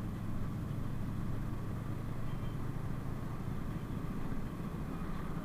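PAZ-32054 bus engine running steadily, a low even drone with road noise.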